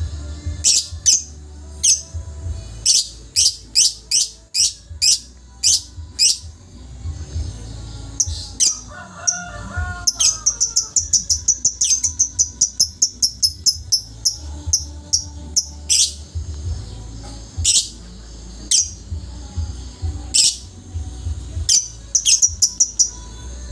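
Lovebird singing: sharp, high chirps in irregular series, with a long fast run of chirps, several a second, from about ten to fourteen seconds in, over a low steady hum.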